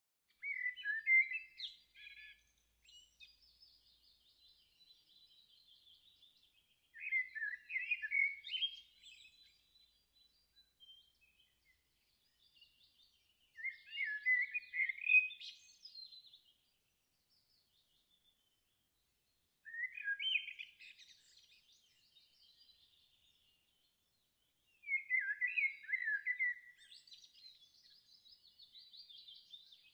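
A songbird singing a short phrase of about two seconds, five times, roughly every six seconds, with fainter high chirping from other birds between the phrases.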